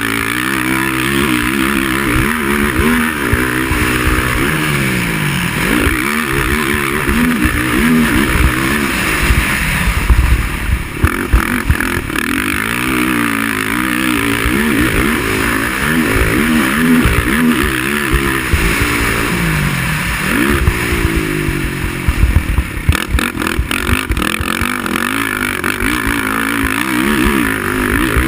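Racing quad's engine revving up and down, its pitch rising and falling again and again as the throttle is opened and closed, with a steady hiss over it.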